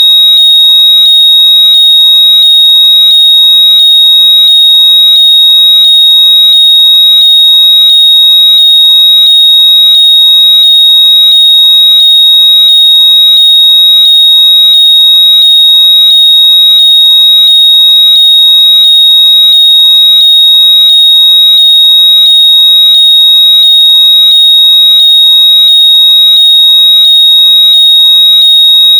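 A steady, very loud, high-pitched electronic tone, held unbroken and unchanging. It is played through earbuds or headphones as a locator sound for finding them when lost.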